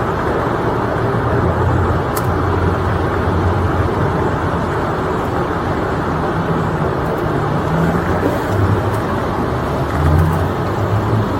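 Steady motor-vehicle noise: a continuous low rumble and hiss, with a low hum that swells a few times.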